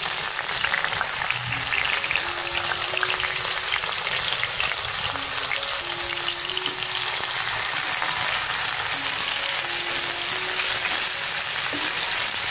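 Chopped onion and garlic frying in hot oil in a non-stick pan, a steady sizzle, stirred with a wooden spatula. A soft background melody of slow single notes plays along.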